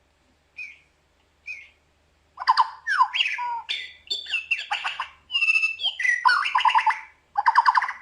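Recorded white-breasted waterhen calls played through a portable Bluetooth speaker: two short calls, then from about two and a half seconds in a loud, fast run of croaking, chattering squawks.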